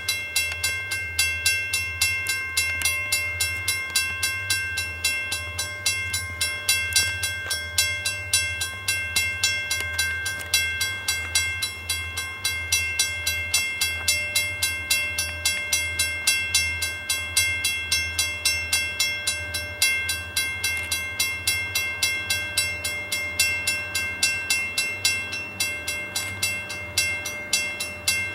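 Railroad grade-crossing bell ringing steadily, about three strikes a second, with its ringing tones held between strikes, under the low sound of a freight train at the crossing.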